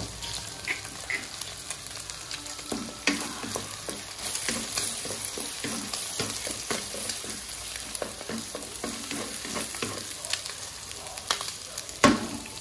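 Egg frying and sizzling in oil in a wok while a wooden spatula stirs and scrapes it around the pan in short strokes, with one louder knock near the end.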